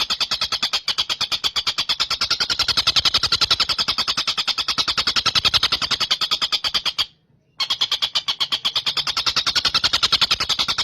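Tengkek buto kingfisher call, as played on a training recording: a fast, even rattle of sharp high notes, many per second. It breaks off for about half a second around seven seconds in, then carries on.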